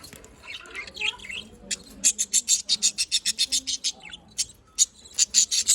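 Budgerigars (budgies) chirping and warbling: soft chatter at first, then a fast run of sharp, high chirps about eight a second, and another burst of chirps near the end.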